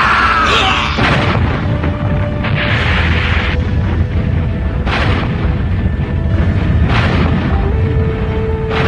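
Cartoon battle sound effects: a run of booming explosions and cannon blasts over dramatic background music.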